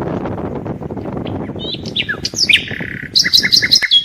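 Small songbirds singing, with whistled chirps and, near the end, a quick run of repeated notes at about six a second, over a steady rushing noise that cuts off at the very end.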